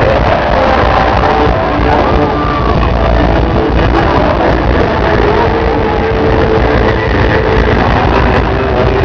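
Loud live band music with singing, picked up from the audience by a camera microphone with heavy, overloaded bass.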